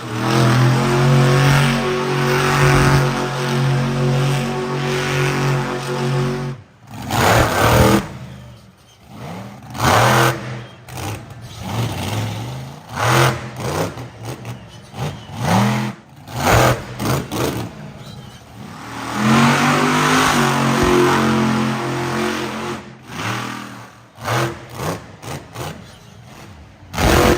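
Monster truck engine held at high revs for several seconds, then revved hard in repeated short throttle bursts, with a rising rev-up about two-thirds of the way through.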